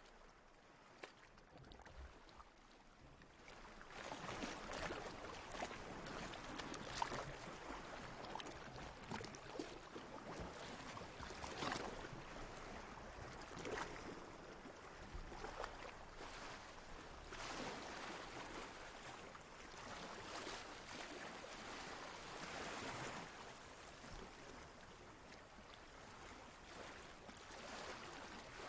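Ocean water washing and lapping in gentle, uneven swells, quieter at first and growing louder about four seconds in.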